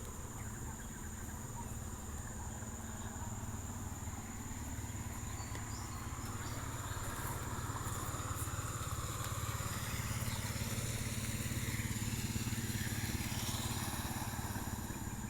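A motor vehicle engine running steadily with a low hum, growing louder through the middle and latter part, as if the vehicle draws nearer. A thin, steady high-pitched tone runs beneath it.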